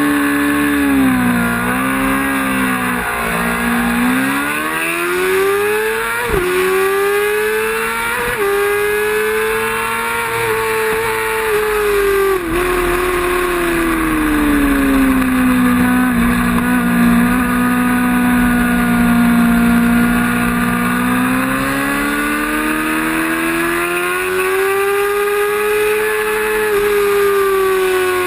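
Racing motorcycle engine running hard at high revs, the pitch climbing and then dropping sharply twice in quick succession a few seconds in as it shifts up. It then eases off into a long low stretch before climbing again near the end.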